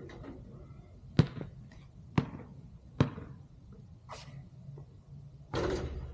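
A basketball bouncing hard three times, about a second apart, followed by a brief noisy rustle and a longer noisy burst near the end.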